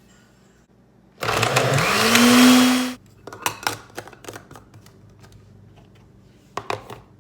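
Countertop blender running in a short burst of about two seconds, its motor whine rising in pitch as it spins up, then cutting off; light clicks and knocks follow.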